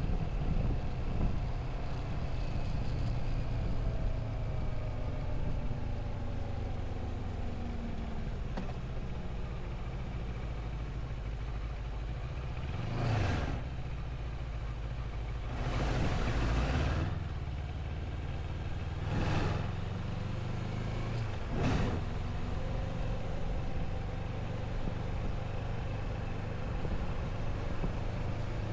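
Moto Morini motorcycle engine running at road speed under wind rush, its pitch shifting slightly in the first few seconds. Four brief, louder whooshes rise and fade partway through.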